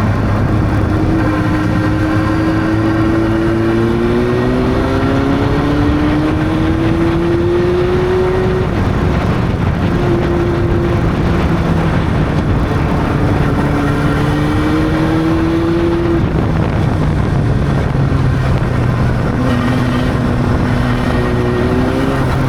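Honda CB600 inline-four engine on the move, its pitch climbing smoothly as it pulls through a gear. The pitch drops sharply at gear changes about nine and sixteen seconds in, then starts climbing again near the end.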